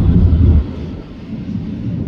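Fireworks booming: a heavy, deep rumble that is loud for the first half second, then dies away into a fading rumble.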